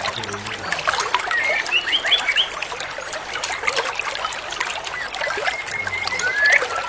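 Small songbirds chirping and twittering over trickling, running water. A burst of quick rising chirps comes about a second and a half in, and a rapid string of high repeated notes near the end.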